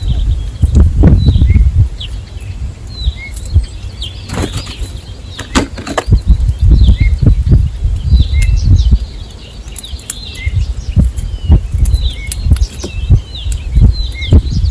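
Birds' wings flapping in repeated bursts of fluttering, with short high chirps of small birds throughout.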